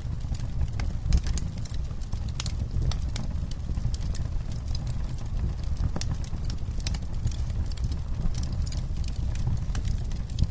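Campfire crackling: many irregular sharp pops and snaps of burning wood over a steady low rumble.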